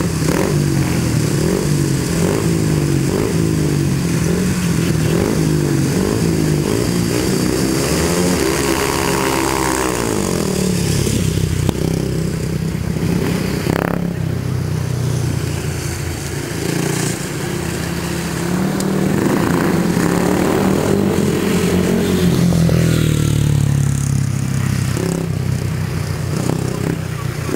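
Speedway motorcycle's 500cc single-cylinder methanol engine running and being revved up and down unevenly, with one sharp crack about halfway through.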